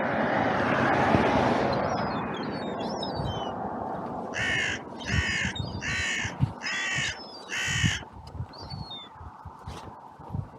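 Carrion crow cawing five times in a steady series, each caw harsh and about half a second long. Before the caws, a broad rushing noise swells and fades in the first two seconds.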